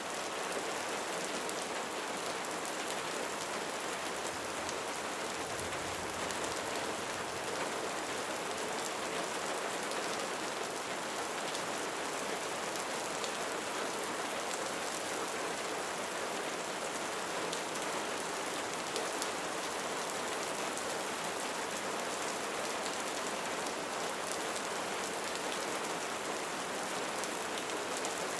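Steady rain falling on a roof, an even hiss of water with scattered individual drop ticks.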